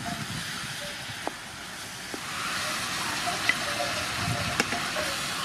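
Sea snail and vegetable stir-fry sizzling and bubbling in a frying pan: a steady hiss that grows louder about two seconds in, with a few sharp clicks of a wooden spatula against the pan.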